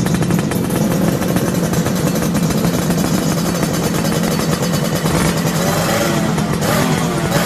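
Suzuki Satria's single-cylinder two-stroke engine running loudly through its exhaust, its pitch swinging up and down from about five seconds in as it is revved.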